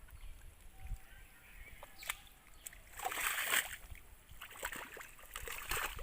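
Hands splashing and sloshing in shallow muddy water while grabbing for fish, in irregular bursts, the loudest about three seconds in and another run near the end.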